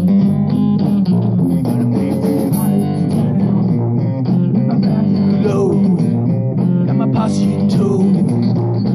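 A rock band playing an instrumental section live, led by guitars over a bass guitar, with no singing.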